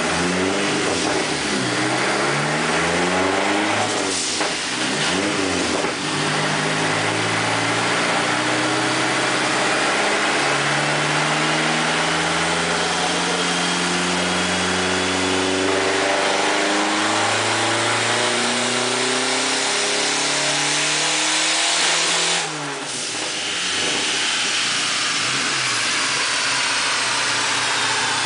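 Dodge Neon SRT-4's turbocharged 2.4-litre four-cylinder under full throttle on a chassis dyno: after a couple of brief revs, the engine pulls with pitch climbing slowly for about sixteen seconds, a thin high whistle rising with it. About 22 seconds in it cuts off suddenly and winds down with a falling whine.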